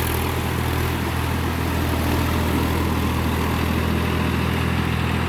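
Massey Ferguson 7250 DI tractor's diesel engine running steadily at an even speed.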